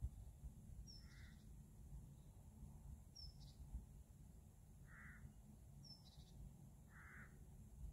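Near silence with faint bird calls: a short high chirp repeated every two to three seconds and, now and then, a lower, rougher call, over a faint low rumble.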